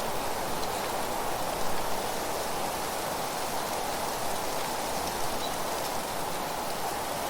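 Wind blowing through trees with leaves rustling: a steady, even hiss without breaks.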